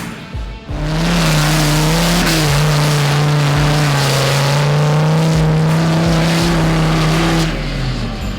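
An off-road 4x4's engine held at high revs under full load on a hill climb: a loud, steady engine note that holds for about seven seconds, then drops away near the end.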